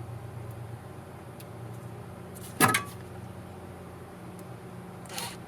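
Small parts or hand tools being handled: one sharp clatter about two and a half seconds in, over a steady low hum. A rubbing scrape begins near the end.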